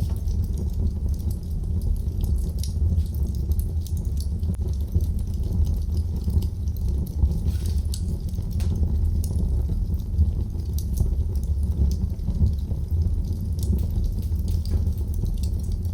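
Wood fire crackling in a fireplace: frequent small sharp pops and snaps over a steady low rumble of the burning fire.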